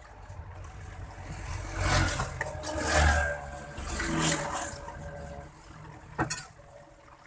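Vehicle engines, rising and fading three times in a few seconds as if passing, followed by a single sharp knock.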